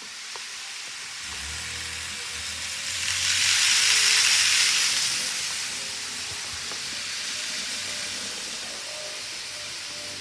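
Model train running on model track: a steady rushing hiss of wheels and motor that swells for about two seconds, a few seconds in, as it passes close, over a low hum.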